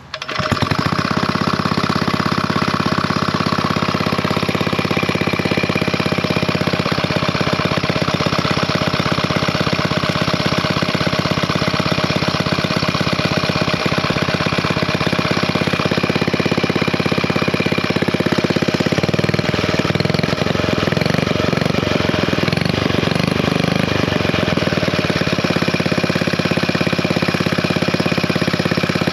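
Villiers Mark 9 stationary engine running steadily, firing with a fast even beat. Its speed wavers a little about two-thirds of the way through.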